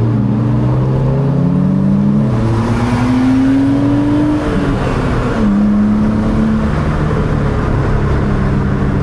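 Car engines running: one holds a steady low note while another climbs in pitch under throttle for about three seconds, drops back about halfway through, then settles to a steady note.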